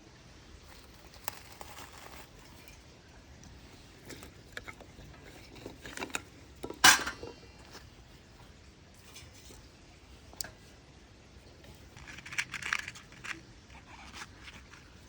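Light clinks and knocks of hard, metal-sounding gear being handled, with one loud clank that rings briefly about seven seconds in and a quick run of clinks near the end.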